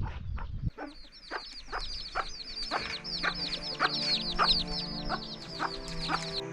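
Chickens calling: a steady run of high, falling chick peeps with short clucks about twice a second. Soft background music comes in about three seconds in.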